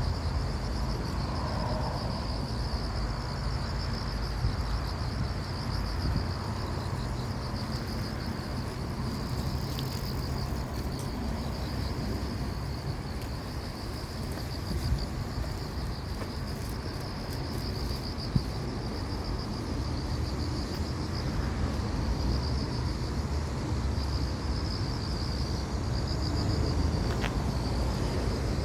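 Insects trilling steadily in a high, rapidly pulsing chorus over a constant low rumble, with a sharp click or two midway.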